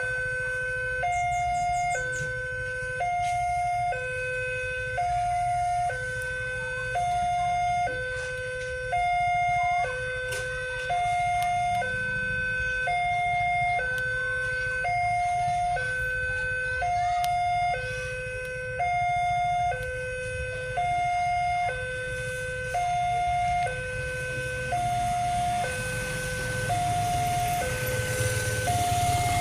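Railway level-crossing warning alarm sounding a two-tone hi-lo signal, switching pitch about once a second, warning that a train is approaching. Under it runs a steady low engine rumble that grows louder near the end.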